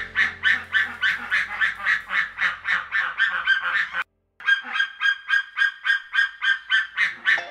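A bird calling in a quick, even series of honking notes, several a second, with a short break about four seconds in.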